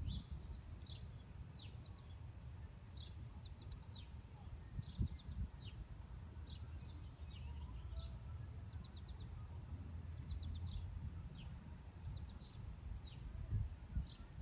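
Small birds chirping outdoors: many short, quick high chirps, singly and in little runs, all through, over a steady low rumble.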